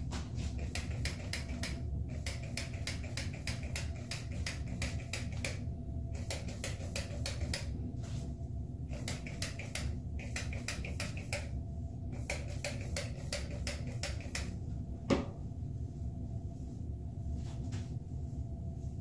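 Trigger spray bottle of leave-in conditioner being pumped onto hair in quick repeated spritzes, about five a second, in runs with short pauses. The spraying stops with one sharp click near the end.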